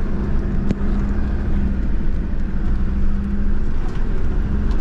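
4x4 engine running steadily at low speed with a continuous low drone, and a couple of brief knocks from the vehicle about a second in and near the end.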